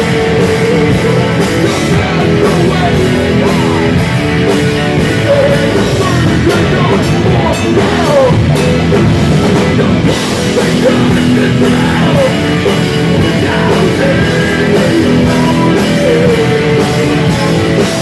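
Live rock band playing loud, with a steady drum-kit beat under electric guitar and bass.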